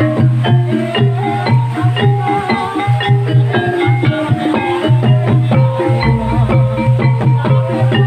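Gamelan music of the kind that accompanies an ebeg trance dance: rapid mallet-struck metal notes in a steady rhythm over a sustained low tone.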